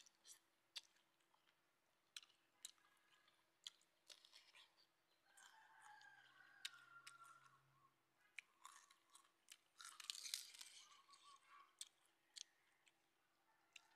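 Close-up chewing and crunching of grilled squid, with many short sharp mouth clicks. About ten seconds in, crisp lettuce leaves rustle and tear as they are handled, and there is a short hummed 'mmm' around the middle.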